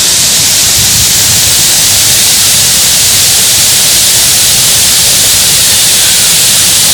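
Waterfall rushing over granite ledges, a loud, steady, even rush of white water with no breaks.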